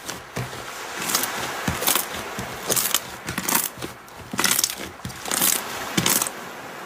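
Slime being squeezed and pressed by hand, giving irregular crackling, popping squishes about once or twice a second.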